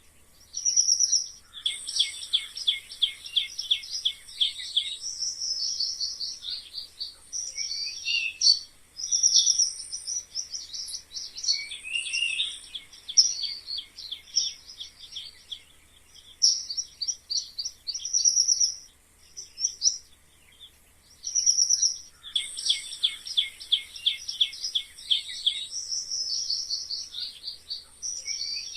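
Mice squeaking: rapid trains of short, high-pitched squeaks and chirps, some gliding down in pitch, in bursts with brief gaps. A run of squeaks near the start recurs almost identically later on, as in a looped recording.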